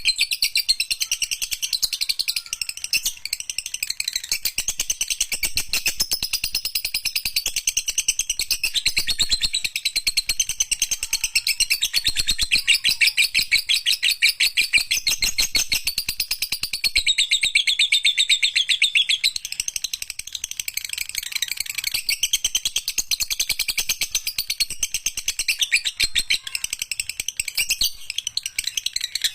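Lovebird singing a long, unbroken, rapid high-pitched chattering song, the 'ngekek panjang' (long ekek) kept for lovebird song-training.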